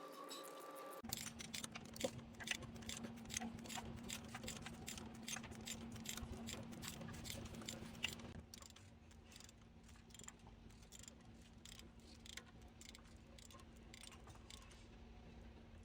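Rapid, quiet mechanical clicking, several clicks a second, that thins out and fades about halfway through, over a steady low hum that starts about a second in.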